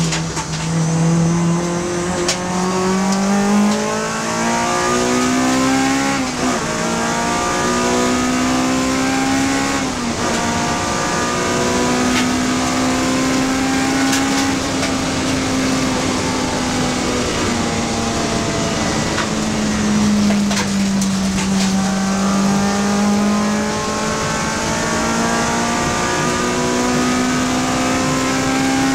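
Honda Civic FD2 race car's four-cylinder engine running hard under load, its pitch climbing through the revs with sharp drops at upshifts about six and ten seconds in, easing back for a few seconds past the middle, then rising again.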